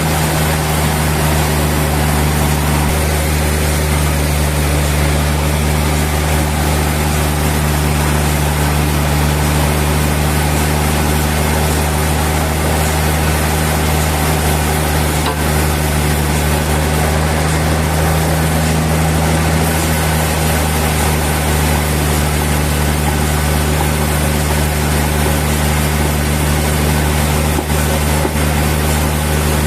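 Sawmill machinery running steadily, a constant low drone that does not change.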